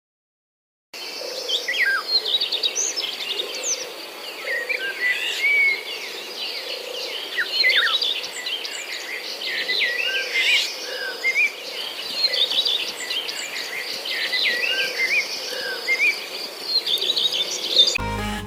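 Several birds singing and calling over one another: many quick chirps and whistled phrases over a steady high trill, starting about a second in.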